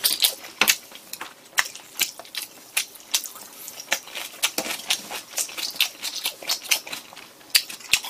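Close-up chewing of a mouthful of fried pork cutlet (donkatsu): rapid, irregular crunches and wet mouth clicks, several a second.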